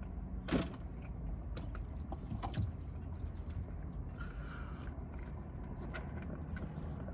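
Quiet eating sounds: small clicks and mouth noises of someone chewing chicken wings and fries, one a little louder about half a second in, over a steady low hum.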